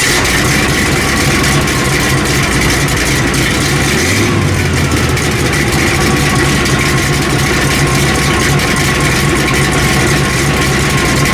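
Truck engine idling steadily and loudly, with a small change in its low note about four seconds in.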